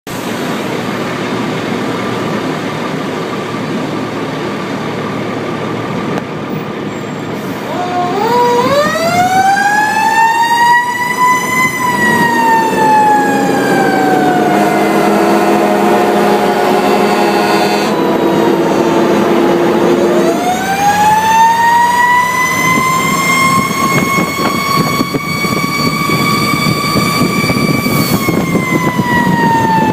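Fire engine siren over the rumble of the truck: after about eight seconds of engine and road noise the siren winds up to a high wail, slowly falls, then winds up again and holds high, dropping near the end. A lower steady tone sounds underneath through the middle stretch.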